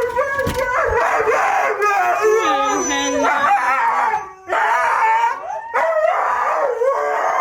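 A dog howling in long, wavering calls, with a short break about four seconds in.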